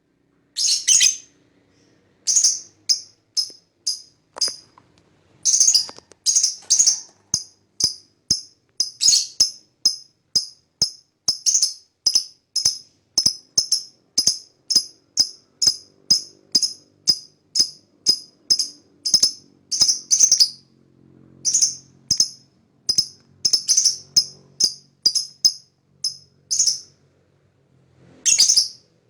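Lovebird (Agapornis) calling in a long series of short, shrill chirps, about two to three a second, in runs broken by brief pauses: the rapid 'ngekek' chatter that keepers play to draw other lovebirds into calling.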